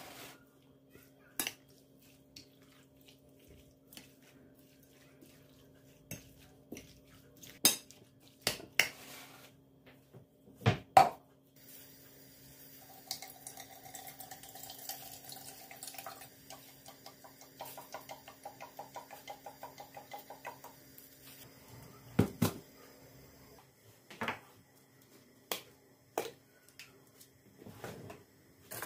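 Kitchen work: dishes, pots and utensils knocking and clinking in sharp, scattered strikes. From about a third of the way in, water runs at the sink for several seconds, with a quick, regular run of strokes, before the clatter goes on.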